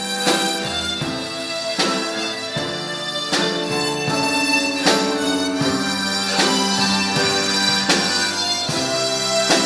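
Harmonica ensemble playing a slow ballad: reedy held melody notes over sustained chords and a bass line, with the chords re-struck about every second and a half.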